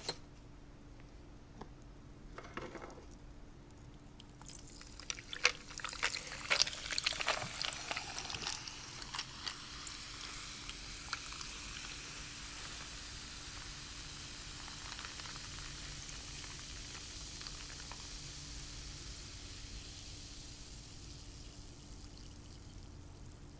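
Sprite soda being poured into a cup: a few seconds of splashing and crackling, then a steady fizz of carbonation that slowly fades. A faint steady hum runs underneath.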